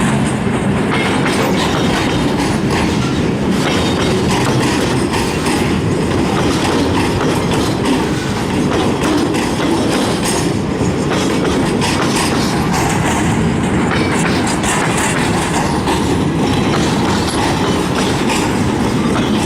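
Loaded broad-gauge freight wagons rolling past at steady speed, the wheels clattering steadily over rails damaged at a road level crossing.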